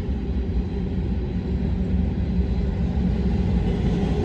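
Freight train rolling past, a steady low rumble that grows slightly louder near the end.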